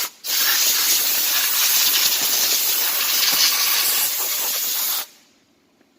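Compressed-air blow gun hissing as it blows water and dirt out of a car's engine bay to dry it. It stops for a moment at the start, then runs steadily until it cuts off sharply about five seconds in.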